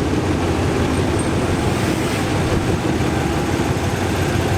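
Diesel train running at a station, a steady loud rumble with a low hum.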